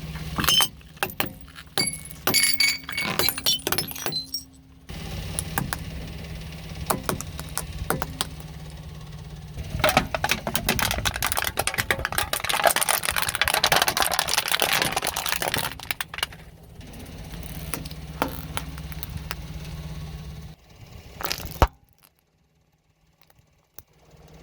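A run of sharp clicks and clinks of hard objects comes first. Then a car engine runs steadily while its tyre rolls over and crushes things, with dense crackling and crunching for several seconds in the middle. The sound stops abruptly near the end.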